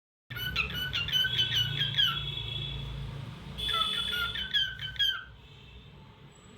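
Lutino cockatiel chirping: a run of quick, short chirps, then a held whistled note, then a second flurry of chirps that stops a little after five seconds in.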